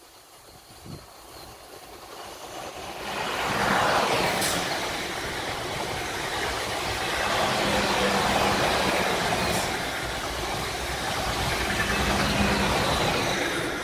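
Two coupled South Western Railway Class 444 electric multiple units passing at speed. The train noise builds over the first three seconds or so as it approaches, then stays loud and steady as the carriages go by.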